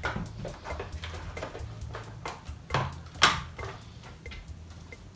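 Small clicks, knocks and scrapes of hands working with tools and the vacuum cleaner's plastic parts, with one sharper knock about three seconds in.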